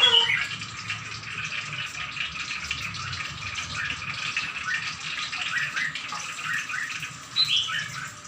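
Songbirds chirping and twittering without pause in quick, short rising notes, with a louder call right at the start and another near the end.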